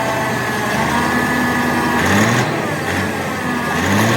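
An engine running steadily, its pitch shifting about two seconds in and again near the end.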